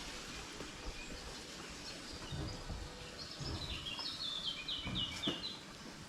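A small songbird sings one short phrase of quick, repeated high notes about three seconds in, over steady outdoor background noise. A few low thumps are heard as well.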